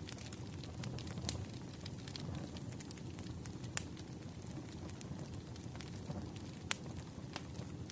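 Wood fire crackling: a steady low rumble of burning logs with sharp pops scattered through, three of them louder than the rest.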